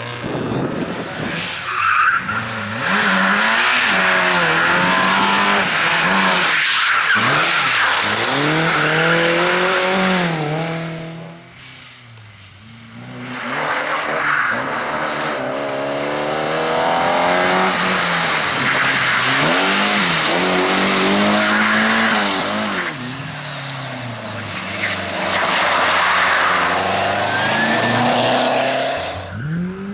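Competition car engines driven hard, revving up and dropping back again and again through gear changes. There is a quieter lull about eleven seconds in, then the engine noise builds again.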